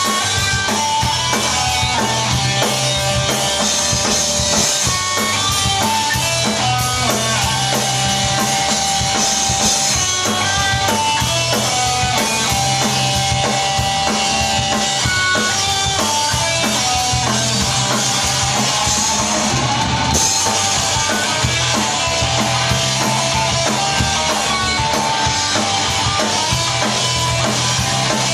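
Live rock band playing an instrumental passage on drum kit, bass and guitar, with a lead guitar line of held notes over the rhythm.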